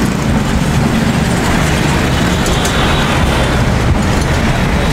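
Steady, loud rumble of a moving road vehicle amid city traffic.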